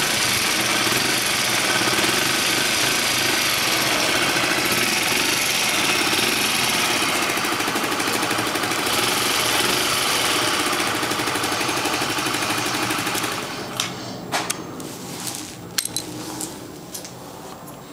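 Kawasaki KSR110's single-cylinder four-stroke engine running steadily through its stock muffler, then cut off about thirteen seconds in, followed by a few sharp clicks.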